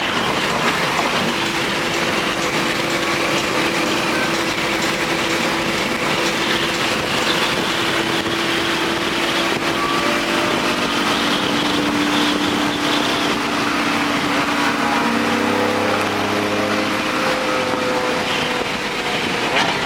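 Car driving at a steady speed: a steady engine drone under continuous road and wind noise.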